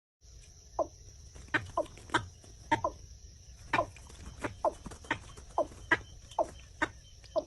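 Watercock (kora) calling: a run of short, clucking notes, each dropping in pitch, about two a second. A steady high background tone runs behind them.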